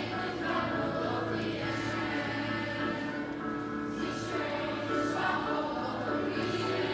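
Choral music: voices singing held chords that shift every second or so.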